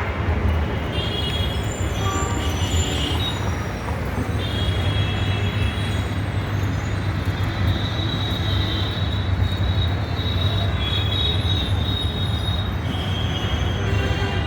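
A moving vehicle's steady low rumble, with high-pitched squealing tones coming and going.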